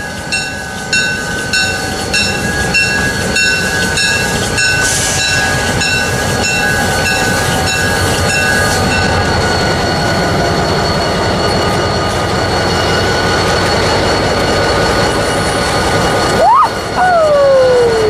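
Great Northern No. 400, an EMD SD45 diesel locomotive, passing with its bell ringing about once a second, over the steady rumble of the moving train. The bell stops about halfway through and the train rumble carries on; near the end, a person whoops.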